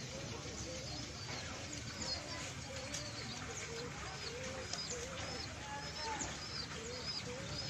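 Birds calling: low cooing calls throughout and, from about halfway in, a high short call repeated about twice a second, over a steady low background hum.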